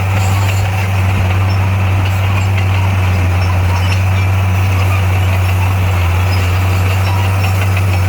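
Heavy construction machine's diesel engine running at a steady speed: a deep, even drone with no revving.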